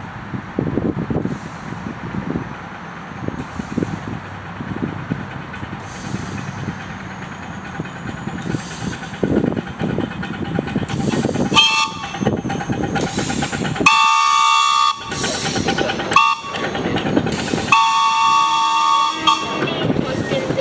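A 1/8-scale ridable miniature train rolling along its track with a low rumble and clatter. About eleven seconds in, its multi-note chime sounds four blasts, long, long, short, long: the grade-crossing signal.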